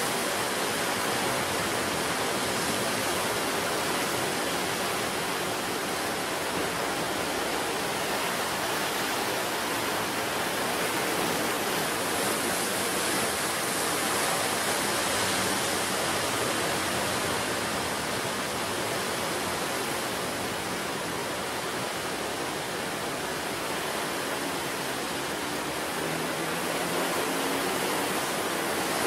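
Ocean surf washing onto the shore: a continuous rushing wash of waves that eases a little past the middle and builds again near the end.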